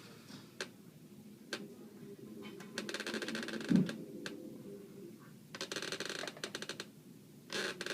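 Bursts of rapid clicking or rattling, each about a second long, with a few single clicks in between and one dull thump, the loudest sound, just before the four-second mark.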